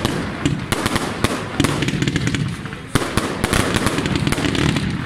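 Fireworks display: aerial shells bursting overhead amid dense, continuous crackling and popping, with a sharp bang about three seconds in.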